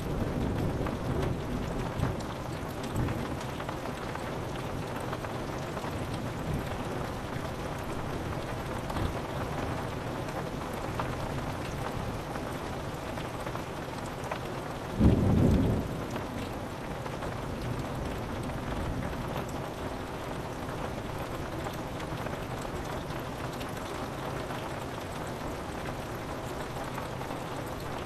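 Steady rain pattering on a window, with low thunder rumbling in the first few seconds and a sharp, loud thunderclap about halfway through.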